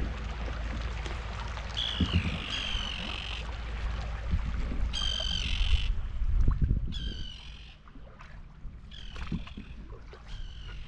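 A bird giving about six harsh calls, each shorter than a second, over a low rumble of wind on the microphone that eases about three-quarters of the way through.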